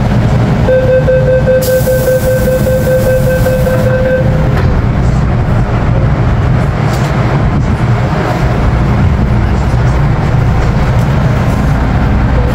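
MTR M-Train electric multiple unit running with a steady rumble. A steady pitched whine sounds for about three seconds near the start, then fades under the running noise.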